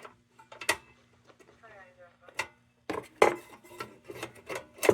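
Tin parts of a Dietz Blizzard lantern being handled on a workbench: a few sharp metallic clicks, then a busier clatter of knocks from about three seconds in, over a low steady hum.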